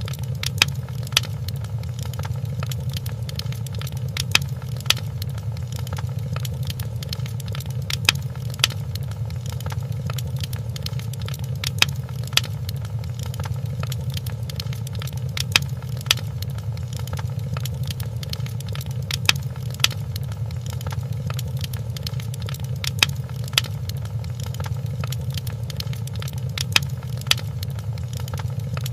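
Fireplace crackling: a steady low rumble of burning with fine crackle over it, and sharp pops. The loudest pops come in pairs about every four seconds, at an even spacing like a repeating loop.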